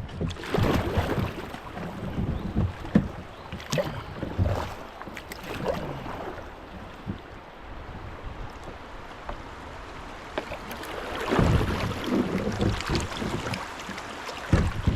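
Kayak paddling through a shallow creek: irregular paddle strokes swishing and splashing in the water, with a few sharp knocks.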